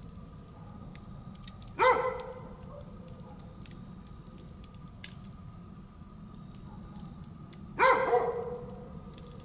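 A dog barks twice, about six seconds apart, over the steady low hiss and scattered small crackles of a wood campfire.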